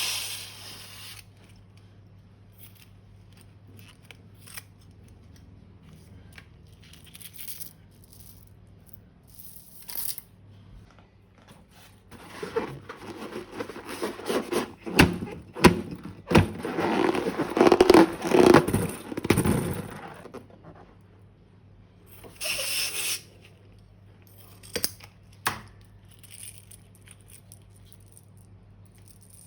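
Slime being handled and mixed by hand: scattered clicks and rustles, building into a dense run of rapid clicking and crackling from about twelve to twenty seconds in, with a short burst a couple of seconds later.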